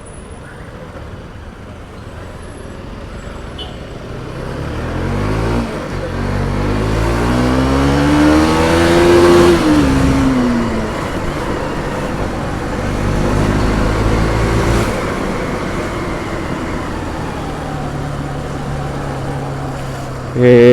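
Motorcycle engine pulling away under throttle: its pitch climbs for about five seconds with a brief break partway through, then drops as it eases off, and it runs on more evenly.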